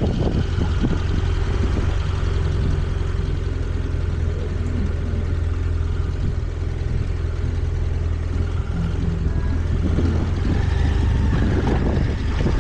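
Motorcycle engine running steadily with a deep, even hum.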